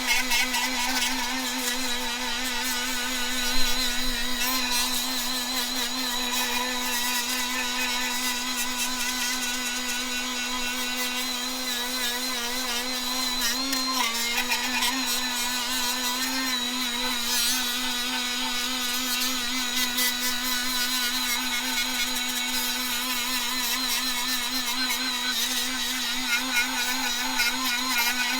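Small handheld rotary grinder, a 'whizzer', running steadily at high speed while cleaning an engine's inlet face, its pitch dipping briefly under load about fourteen seconds in.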